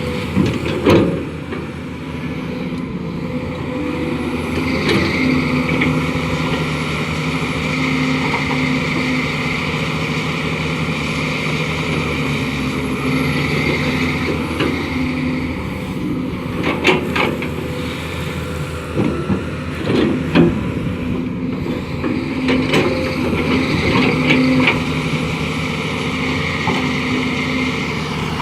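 Hydraulic excavator's diesel engine running steadily under load while it spreads laterite fill. A higher whine swells and fades over it, and a few sharp metallic knocks come through, loudest about 17 and 20 seconds in.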